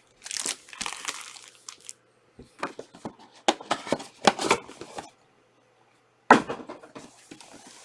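Soccer trading card packs and cards being handled: wrapper crinkling and card rustling in short irregular bursts, with two brief pauses and a sharp crackle about six seconds in.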